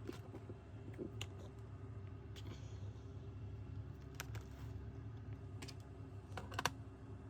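HP Pavilion 15 laptop's cooling fan running with a steady low hum, the fan noise the laptop is being fixed for, with scattered sharp clicks and taps over it.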